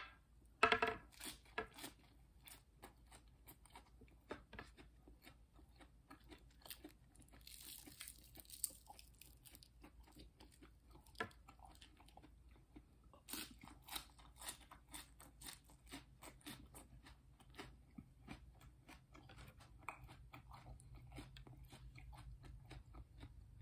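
Close-up crunching and chewing of raw vegetables, lettuce and cucumber, bitten and chewed with the mouth near the microphone. There is a loud bite about a second in and a denser run of crisp crunches from about halfway.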